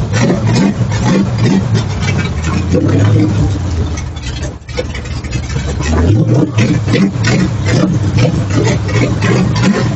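Carbureted race car engine running rough and uneven on sprayed ether and carb cleaner. It sags briefly about halfway through, then picks back up.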